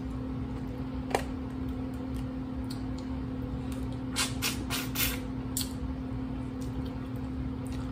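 A person eating shrimp close to the microphone: one sharp click about a second in, then a cluster of short wet smacks and clicks of chewing about four to five and a half seconds in, over a steady low hum.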